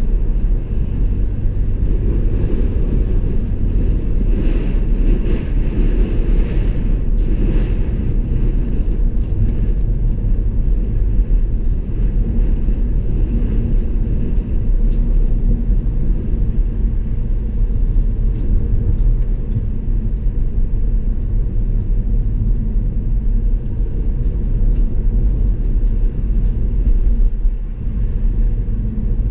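A car driving along a road: a steady low rumble of tyres and engine, with a lighter hiss that swells for a few seconds near the start.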